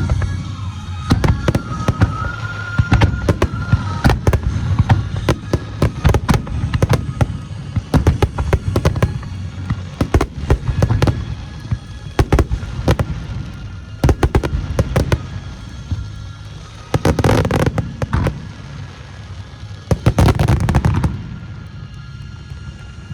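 Aerial firework shells bursting in a rapid barrage, many booms close together, with music playing underneath. Near the end come two longer, denser bursts, after which the booms stop.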